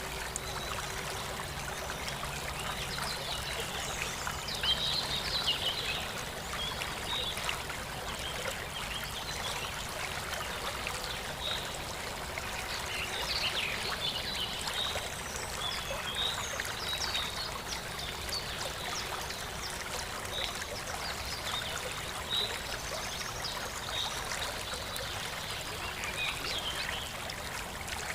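Water in an aquascape aquarium trickling and splashing steadily, with many short high plinks scattered throughout.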